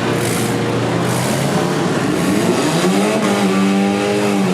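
Four-cylinder demolition derby car engine running, revving up about two seconds in and holding at higher revs, amid the noise of other engines running.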